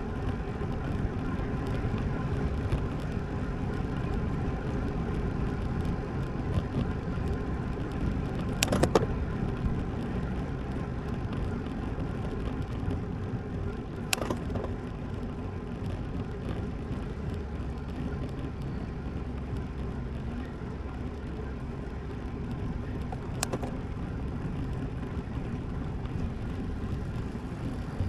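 Steady low rumble of wind on the microphone and tyre noise from a road bike rolling along, with three sharp clicks or knocks spread through it.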